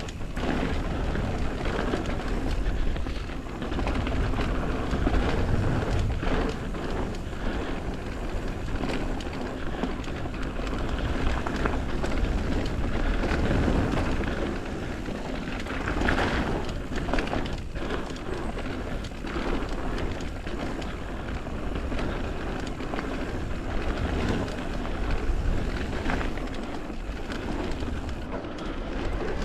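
Mountain bike riding down a dirt trail: a steady rumble of tyres rolling over dirt and roots, with frequent knocks and rattles from the bike over bumps.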